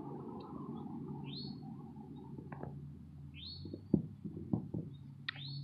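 Birds chirping: three or four short calls that slide downward, over a low steady hum. Water pours softly from a glass bottle onto powdered lime at the start, and a few light clicks and knocks follow, the sharpest about four seconds in.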